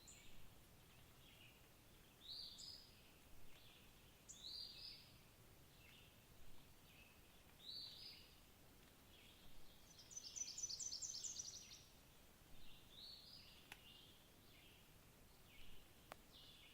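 Faint birdsong: short falling notes repeated every second or two, with a rapid trill of about a dozen quick notes a little past the middle. Two faint clicks near the end.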